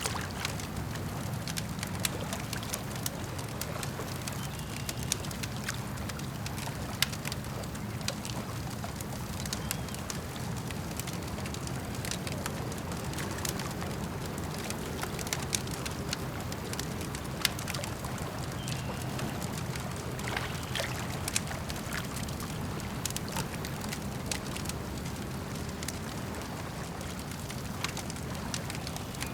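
Campfire crackling, with sharp irregular pops and snaps over a steady low wash of lake water.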